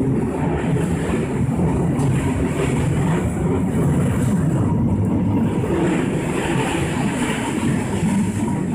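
Running noise heard inside a Shin-Keisei 8800 series electric train: a steady low rumble of the car rolling on the rails.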